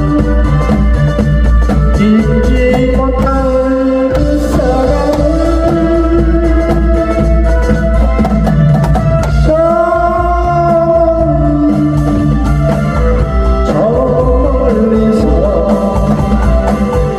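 Drum kit played along to a recorded pop song with a male voice singing the melody over the backing band.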